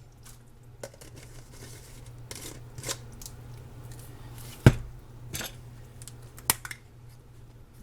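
Kitchen handling sounds while seasoning a pot of soup: scattered light clicks and taps of utensils and containers, with one sharp knock a little past halfway, over a steady low hum.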